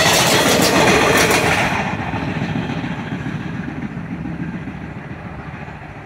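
Tail of an Indian Railways passenger train passing close at speed, its coach wheels clattering over the rail joints. The last coach goes by about two seconds in, and the rumble then fades steadily as the train draws away.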